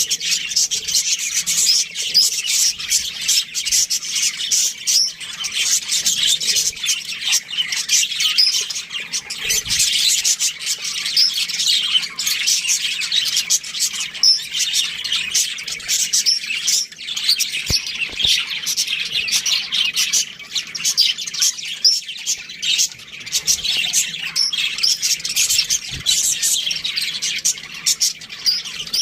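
A flock of budgerigars chirping and chattering continuously, many short overlapping high-pitched chirps and warbles.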